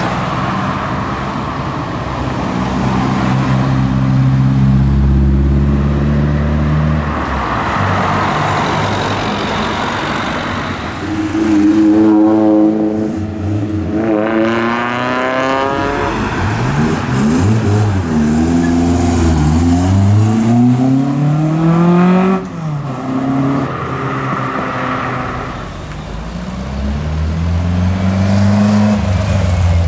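Car engines pulling away one after another: low engine notes held steady, then revving hard with the pitch climbing through the gears, once about halfway through and again soon after, the second rise cutting off sharply, before further engines pass.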